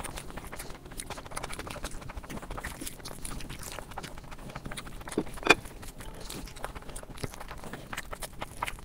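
Close-miked eating sounds: wet chewing, lip smacks and small mouth clicks in an irregular patter, with a louder sharp click or crunch about five and a half seconds in.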